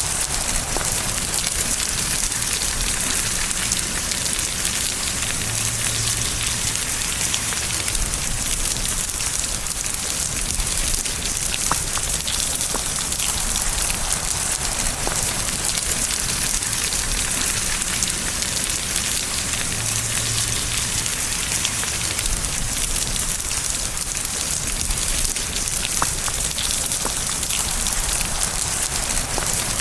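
Steady rain falling on a surface, a dense even hiss with many small drop ticks through it.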